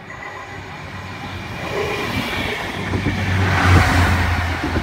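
A Network Rail Windhoff multi-purpose vehicle running through a station, its diesel engine hum and wheels on the rail growing louder to a peak about four seconds in as it passes close by.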